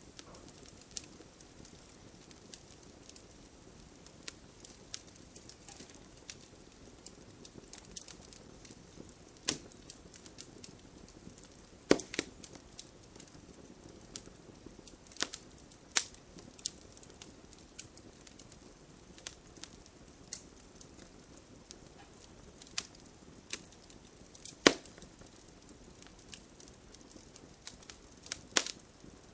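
Fireplace fire crackling, with soft hiss and irregular sharp pops, a few of them louder.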